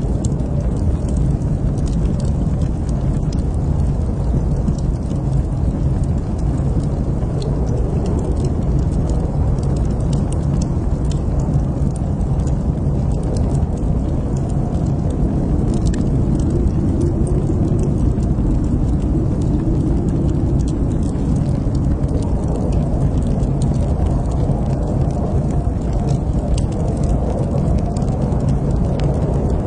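Wood fire burning in a fireplace: a steady low noise of the flames with small crackles scattered throughout.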